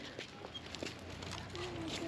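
Faint outdoor background with a few soft clicks and a low steady hum, and a quiet voice starting near the end.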